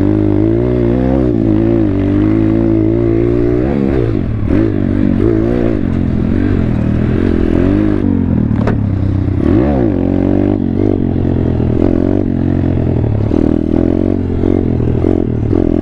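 2019 Thumpstar 140cc pit bike's single-cylinder four-stroke engine running while ridden off-road, its revs rising and falling every second or so with the throttle.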